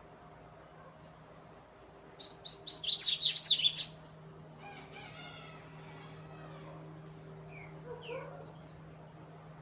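Young double-collared seedeater (coleiro) singing: a loud burst of rapid, high chirping notes about two seconds in, lasting nearly two seconds. Softer, fainter notes follow, with two short notes near the end.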